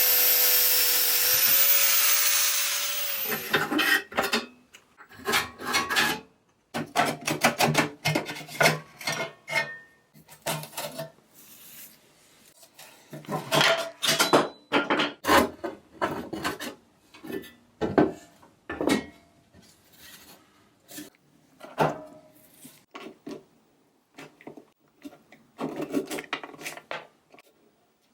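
A small motor-driven tool runs steadily and stops about three seconds in. It is followed by irregular spells of hand scraping and rubbing strokes, with short pauses between them.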